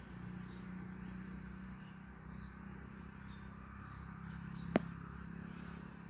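Outdoor ambience with a steady low hum and a few faint, scattered bird chirps. A single sharp click comes about three-quarters of the way through.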